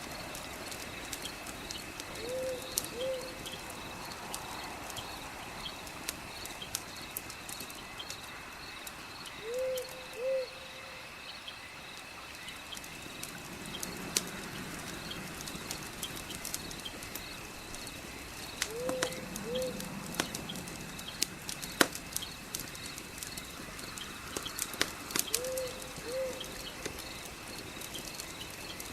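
Fireplace ambience: scattered crackles and pops over a steady chorus of chirping insects, with a bird giving a two-note hoot four times.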